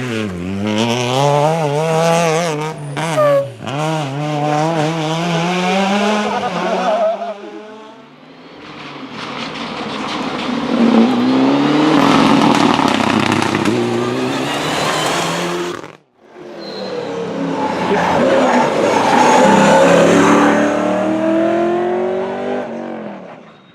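Rally cars at racing speed passing one after another, engines revving hard and dropping back between quick gear changes, with some tyre squeal. The sound cuts off abruptly about two-thirds of the way through, and another car comes up loud straight after.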